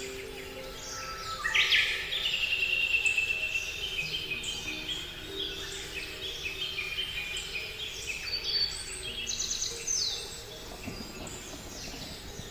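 Songbirds singing: quick high whistles, trills and falling chirps, several at once and loudest a couple of seconds in. Soft held notes underneath, like quiet background music.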